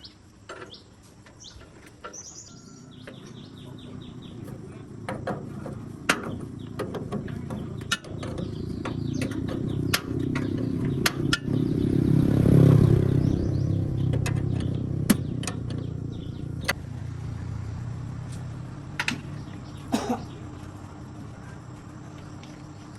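A motor vehicle's engine grows steadily louder to a peak about halfway through, then fades away. Scattered sharp metallic clinks and faint bird chirps are heard over it.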